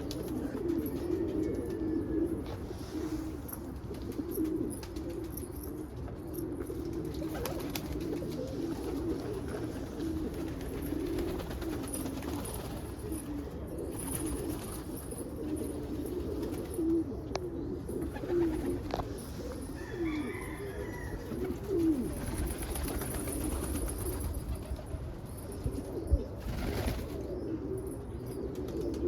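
Pigeons cooing continuously, several low coos overlapping, with a few brief higher chirps about two-thirds of the way in.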